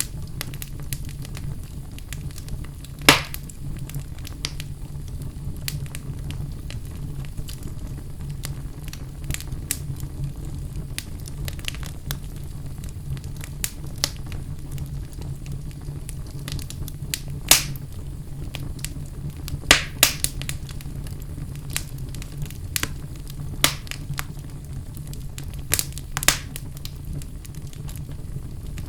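Wood fire burning in a fireplace: a steady low rumble of the flames with scattered sharp crackles and pops, the loudest about three seconds in and a few more strong pops between seventeen and twenty-six seconds in.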